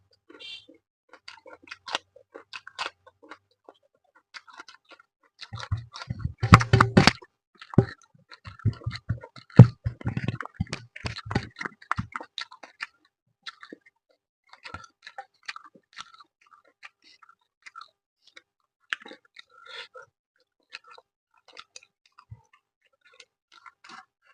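Close-up chewing and mouth sounds of someone eating fish with rice: many small wet clicks and smacks. Between about six and twelve seconds in there is a louder cluster of knocks and thumps.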